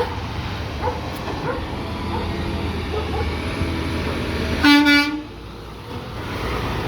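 Peterbilt 520 McNeilus ZR garbage truck's engine running as it approaches, then one short blast of its air horn about two thirds of the way in, the loudest sound here.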